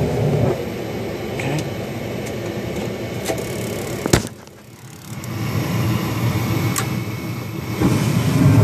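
Gas wall heater running with a steady low hum from its blower. A single sharp click comes about four seconds in, then the sound drops away for about a second before the hum comes back.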